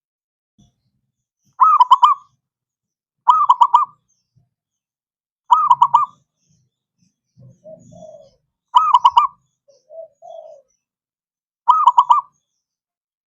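Zebra dove (perkutut) cooing: five short, loud phrases of three or four quick looping notes, spaced a second or more apart, with a few softer, lower coos between them near the middle. It is a lure song, played to prompt a silent dove to sing.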